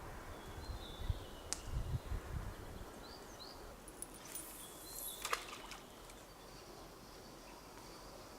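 Small birds giving short chirps, with low thumps and rustling at first, a sharp click about a second and a half in, and a rustling burst ending in a sharp knock about five seconds in.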